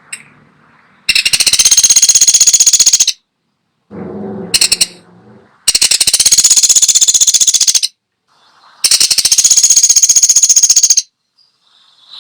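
A woodpecker calling: three long, high-pitched rattling trills of very rapid repeated notes, each lasting about two seconds, with short pauses between them. About four seconds in there is a softer, lower sound and a brief high rattle.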